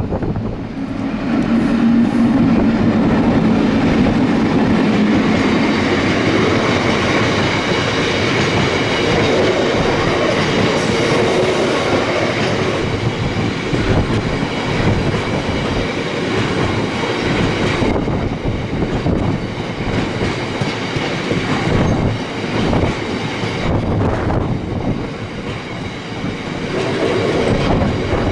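Coal freight train rolling past, its wagon wheels clattering steadily over the rail joints with some high wheel squeal.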